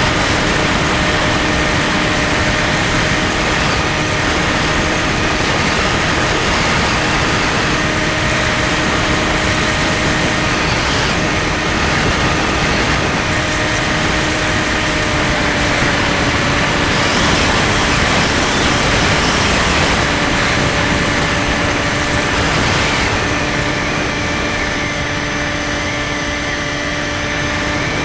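Skywalker 1680 RC plane's brushless electric motor and propeller running at a steady pitch under heavy wind rush. The pitch dips slightly about halfway through, and the highest hiss thins near the end.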